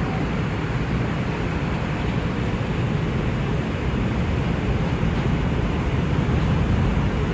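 Inside an R142 subway car as it pulls away from a station: a steady rumble of wheels on rail and motors that grows slightly louder as the train gathers speed.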